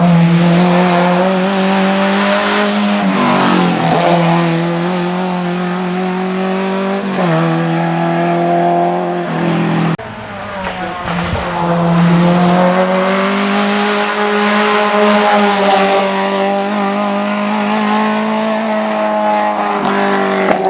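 Race car engine running hard at high revs on a hill-climb run. It holds a fairly steady high pitch, dipping briefly a few times at gear changes. The sound breaks off abruptly about ten seconds in and then picks up again.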